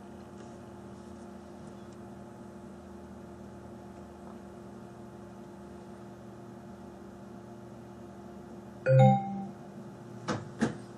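An HTC One SV phone gives a short, loud vibration buzz about nine seconds in as it powers on after a screen repair. Two sharp clicks follow near the end, over a steady low electrical hum.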